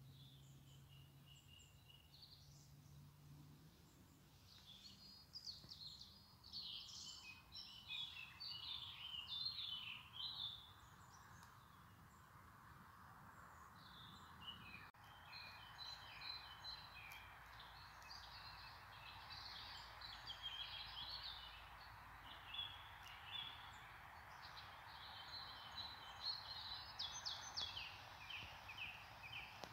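Faint birdsong: several birds chirping in quick runs of short, high notes over a soft steady hiss that builds up partway through.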